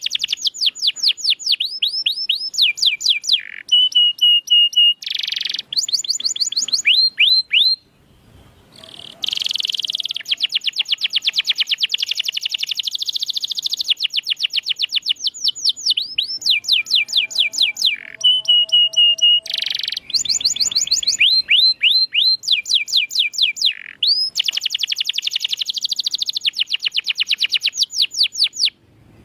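Domestic canary singing loudly in long rapid trills: runs of quick falling notes repeated many times a second, broken by short held whistles and changes of phrase, with brief pauses about eight seconds in and near the end.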